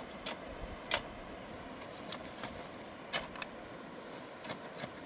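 A series of irregular sharp clicks and knocks, about nine of them spread unevenly, over a steady rushing background noise.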